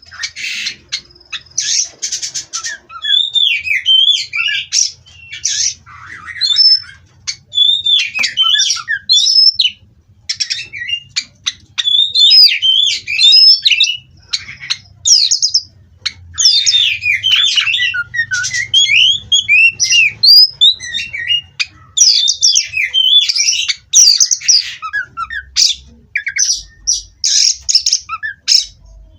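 Oriental magpie-robin (kacer) singing loudly and almost without pause: a fast, varied run of whistles, chirps and harsh scratchy notes in short phrases.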